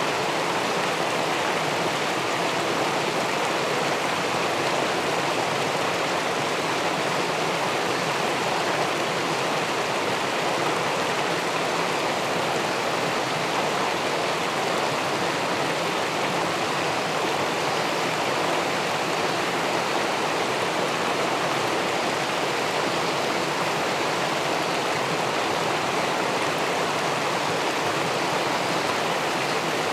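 Steady rushing of river water spilling over a low weir into the pool below, an even, unbroken wash with no single splashes standing out.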